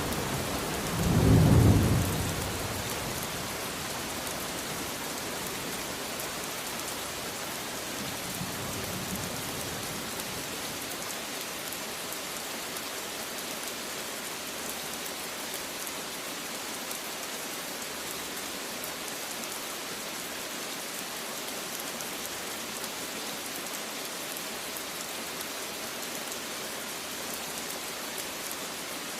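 Steady rain falling, with a loud low rumble of thunder about a second in and a fainter rumble a few seconds later, then rain alone.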